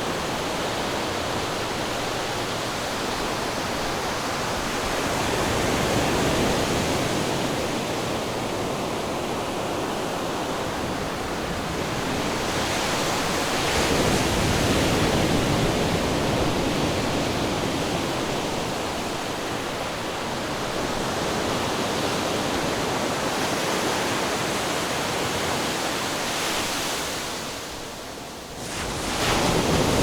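Ocean surf: a continuous wash of breaking waves that swells and ebbs every seven or eight seconds, with a brief lull near the end before the next wave breaks.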